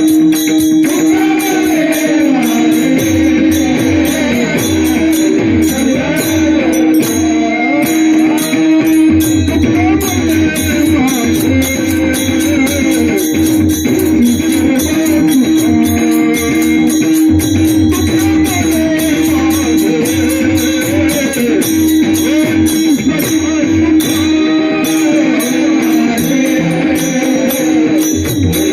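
Varkari kirtan music: a male voice sings a devotional melody over a steady held drone, with regular pakhawaj drum strokes and continuous jingling of hand cymbals.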